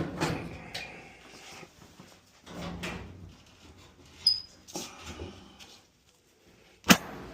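Metal dryer panels and parts being handled and fitted back together, with scattered clunks and one sharp snap about seven seconds in.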